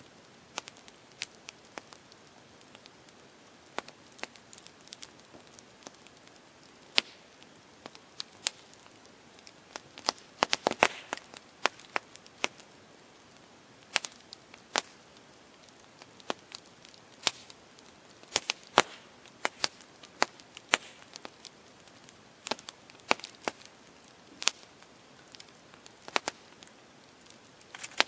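Campfire crackling: burning wood giving off irregular sharp pops and snaps over a faint steady hiss, with small flurries of pops about ten seconds in and again around eighteen seconds.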